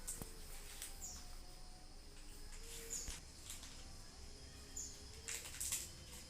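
White-rumped shama (murai batu) giving short, high, faint chirps a few times, with a quick run of sharp ticks near the end.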